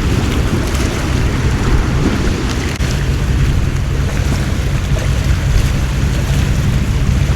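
Storm ambience: heavy rain hissing steadily, with wind buffeting the microphone in a constant low rumble.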